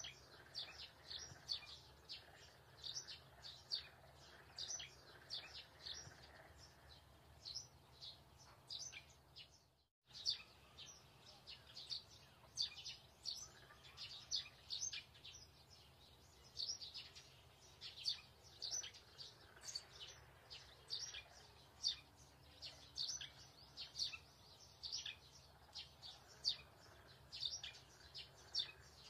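Small birds chirping in quick, repeated high notes, several a second, over a steady low hum. The sound cuts out briefly about ten seconds in.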